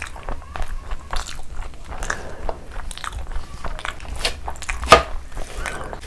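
Close-miked chewing of a mouthful of rice and chicken curry, with wet mouth clicks and smacks throughout and one sharp, loud click about five seconds in.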